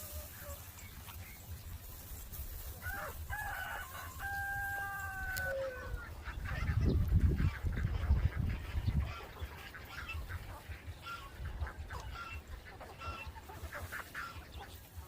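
Chickens calling: one rooster crow, a held call that falls at the end, followed by many short clucks and chirps. A loud low rumble a few seconds in the middle is the loudest part.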